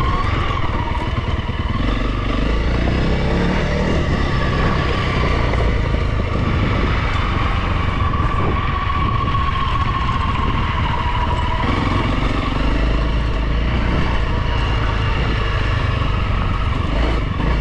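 Honda CRF300L dual-sport motorcycle's single-cylinder four-stroke engine running steadily while the bike is ridden along a gravel trail, its pitch wavering slightly with small throttle changes.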